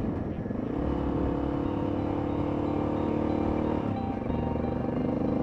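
Honda XR650L's air-cooled single-cylinder four-stroke engine running steadily while riding. The engine note dips briefly about four seconds in, then holds steady again.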